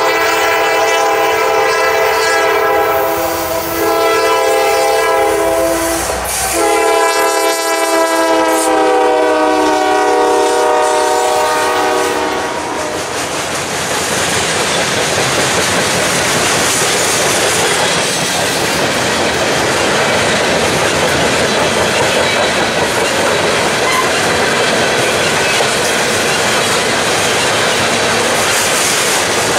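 Norfolk Southern SD70 diesel locomotives sounding a multi-chime air horn in long blasts, broken briefly twice, with the chord shifting slightly about six seconds in and stopping about 12 seconds in. Then the steady rumble and clickety-clack of freight hopper cars rolling past at speed.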